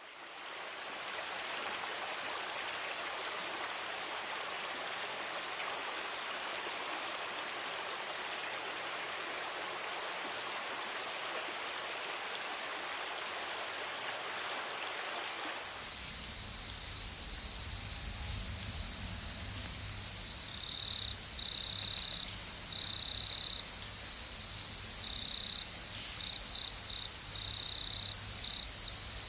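Water running in a stream with a steady high insect trill over it; about halfway through it changes abruptly to a louder steady insect chorus, a second, lower buzz breaking in and out of it, over a low rumble.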